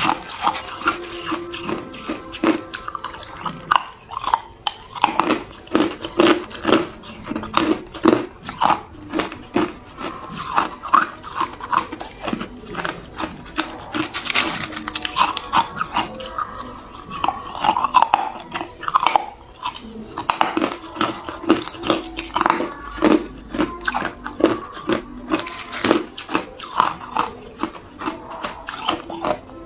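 Hard ice cubes being bitten and chewed, a rapid, irregular run of sharp crunches and cracks.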